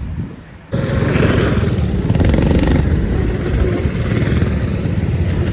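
Racing go-kart engines running loud and rough, starting abruptly a little under a second in.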